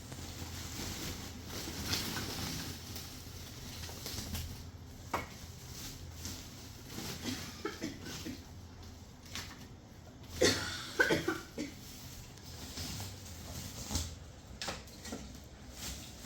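Scattered light knocks and clatter of things being handled, with a louder brief cluster of knocks a little past halfway.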